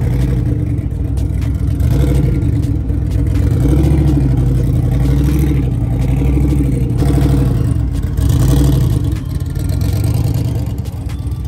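Engine of a modified Fox-body Ford Mustang drag car on slicks, running loud and unsteady with a few light blips of the throttle as the car rolls slowly away.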